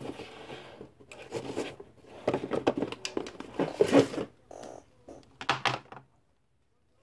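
Plastic packaging rustling and crinkling in irregular bursts as items are handled and pulled out of an opened delivery package; the sound cuts off suddenly about six seconds in.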